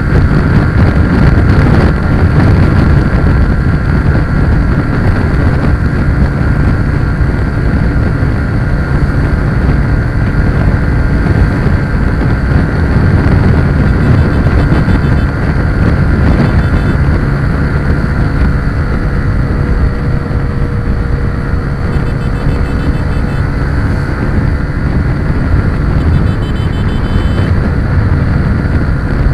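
A motor vehicle's engine running steadily at speed, with wind rushing over the microphone.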